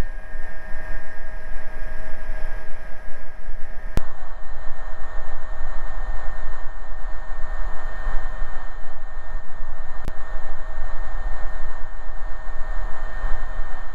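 AgustaWestland AW119 Koala single-turbine helicopter in cruise, a loud steady cabin noise with a deep rumble and steady whining tones. Sharp clicks come about four seconds in and again near ten seconds.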